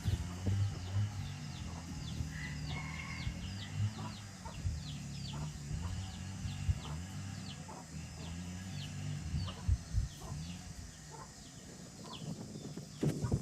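Young chickens peeping: short, high calls that fall in pitch, about one or two a second, over a steady low hum.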